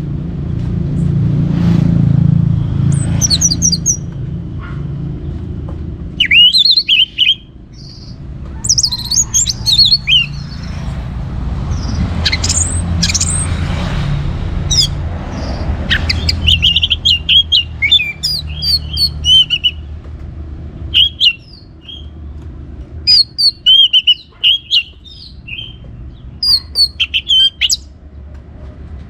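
Orange-headed thrush singing in quick bursts of short, high, twisting notes, one cluster after another with brief gaps, over a steady low rumble.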